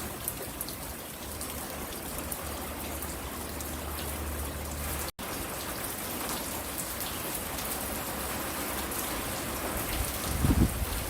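Steady rain falling, with scattered sharp drips. The sound cuts out for an instant about five seconds in, and a low rumble swells near the end.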